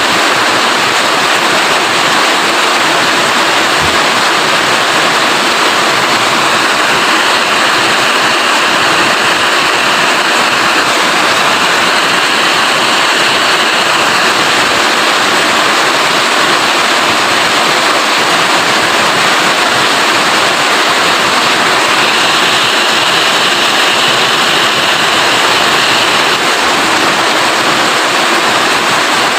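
Rain falling steadily, a loud, dense, even hiss with no breaks.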